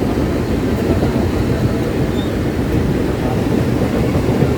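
Mumbai suburban local train running: a steady low rumble as heard from inside a crowded carriage, with passengers' voices mixed in.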